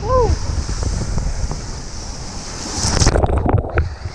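Wind buffeting the camera's microphone over a steady rumbling rush, with a short rising-and-falling pitched sound at the very start and a louder noisy swell near the end that drops away sharply.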